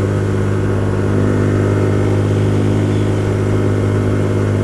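Hyosung GT125R's 125 cc V-twin engine running at a steady cruise, holding one even pitch with no revving or gear change.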